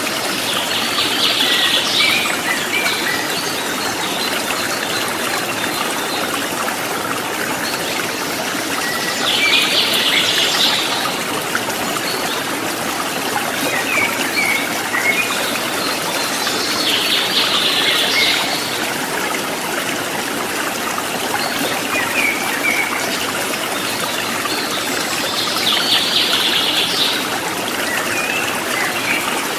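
Water trickling and splashing in a steady stream. A bird's short trilled song phrase, ending in a few chirps, rises over it four times, about every eight seconds.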